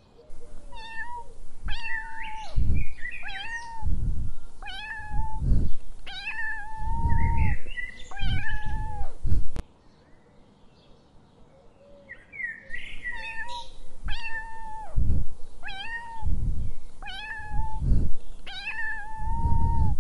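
A cat meowing over and over, short calls about a second apart, in two runs split by a pause of about three seconds near the middle.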